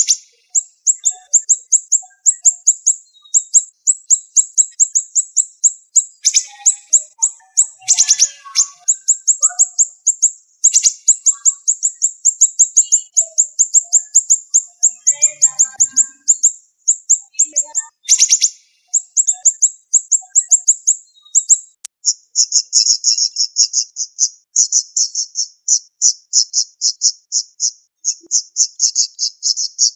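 Siri-siri songbird singing fast, tightly packed runs of high, sharp chirps with only brief breaks. About two-thirds of the way through, the song shifts to a slightly lower, denser trill.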